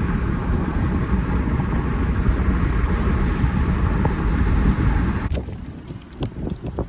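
Wind buffeting the microphone with a steady low rumble and rush. It cuts off sharply about five seconds in, leaving quieter wind and a few faint clicks.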